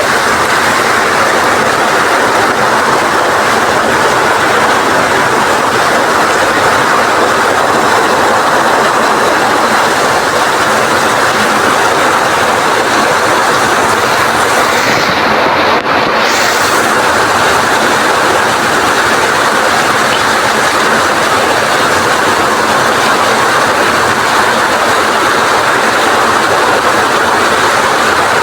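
Heavy rain in strong wind, a loud, steady rushing downpour that dulls briefly about halfway through.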